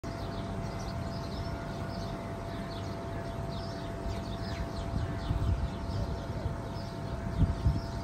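Many birds chirping, short high falling chirps overlapping throughout, over an uneven low rumble that swells near the end and a faint steady hum.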